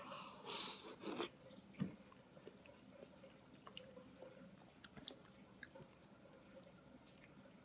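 Faint chewing and mouth noises of a person eating fettuccine noodles off a fork. A few louder short noises come in the first two seconds, then only soft scattered clicks.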